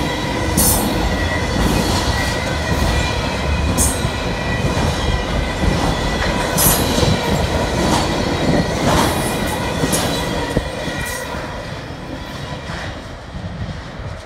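Railcars rolling past at close range: a steady rumble of steel wheels on rail with a thin steady squeal and repeated short high wheel screeches. The sound eases off over the last few seconds as the train passes.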